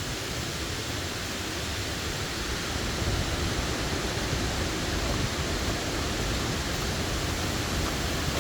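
Hurricane wind blowing in steady gusts, rumbling on the microphone.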